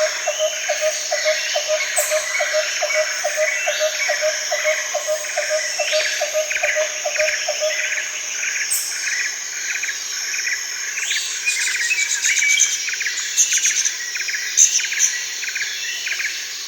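Daytime rainforest chorus of birds and insects: a steady high insect drone under dense, overlapping bird chirps and calls. A lower call pulses about three times a second, then stops about halfway through; sharper high bird notes come more often near the end.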